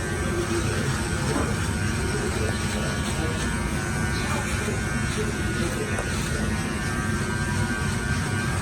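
Electric hair clippers buzzing steadily while cutting hair, with music playing alongside.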